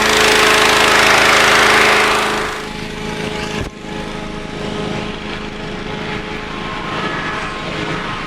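Hot air balloon inflator fan running steadily, its engine tone under a loud rush of air. The air rush drops off about two and a half seconds in, and after a sudden break the fan carries on more quietly.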